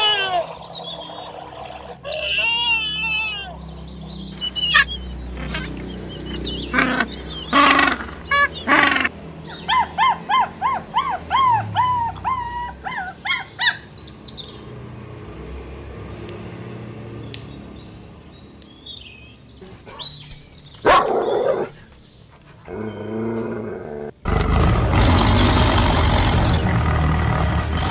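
A run of animal calls, mostly bird chirps: a wavering chirp, then a quick series of short rising chirps, with a few other calls between, and a loud steady rush of noise near the end.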